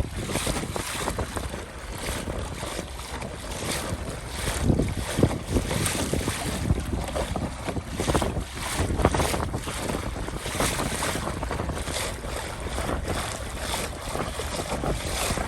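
Strong wind buffeting the microphone in uneven gusts, with choppy river waves slapping against a fishing kayak's hull as it heads into the wind.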